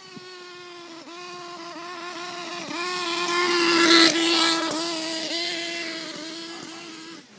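Small two-stroke nitro engine of an HPI Pulse RC car running at a steady high pitch with brief stumbles about once a second, getting louder to a peak about halfway and then fading. The owner describes it as misfiring, popping and spluttering all the time, and rules out a fuelling issue.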